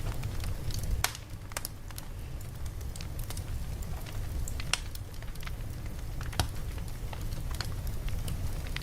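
Campfire crackling: irregular sharp pops and snaps scattered over a steady low rumble.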